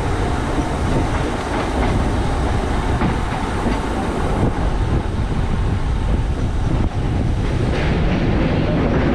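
Electric multiple unit (EMU) local train running steadily at speed, with wheel and rail noise heard from outside the side of the coach.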